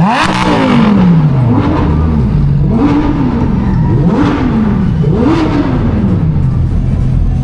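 A car engine revved repeatedly, its pitch jumping up and sinking back about five times over a steady idle.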